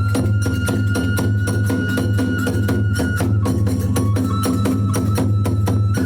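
Kagura hayashi accompaniment: drums and small hand cymbals keep up a fast, even beat while a bamboo flute holds a long high note. The flute breaks off about three seconds in and comes back about a second later.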